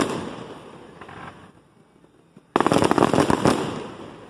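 Fireworks display: aerial shells bursting into crackling stars. A dense crackle fades out over the first second and a half. A second sudden burst of crackling comes about two and a half seconds in and fades.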